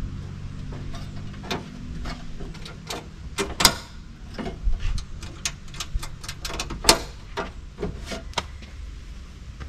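Broaddict folding steel tailgate table being folded up and latched: a string of sharp metal clicks and knocks from its panels and brackets, loudest about three and a half seconds in and again near seven seconds. A low hum underneath fades out after about two and a half seconds.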